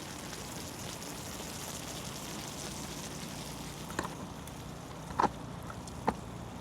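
Food cooking over a fire: a steady sizzling hiss, with three sharp crackling pops in the last few seconds.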